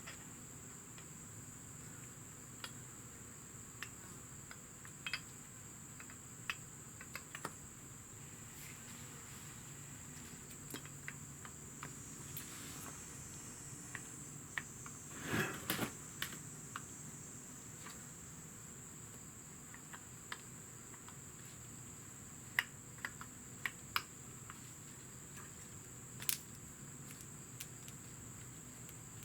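Small scattered clicks and taps of metal brake caliper parts being handled and fitted back together, with a louder rustle about halfway through, over a steady high-pitched tone.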